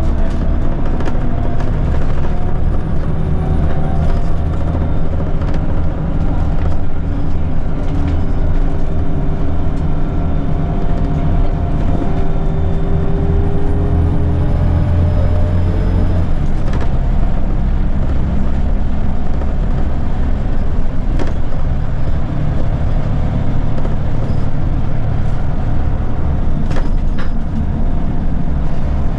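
A Scania L94UB city bus's diesel engine pulling with its ZF automatic gearbox, running steadily with a whining tone over the engine note. The engine note drops and changes about halfway through, and there are occasional short clicks and rattles.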